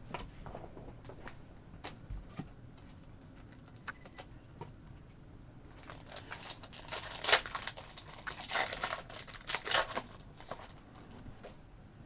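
Trading cards and a foil card pack being handled. There are light scattered clicks at first, then from about six seconds in roughly four seconds of dense crinkling and rustling.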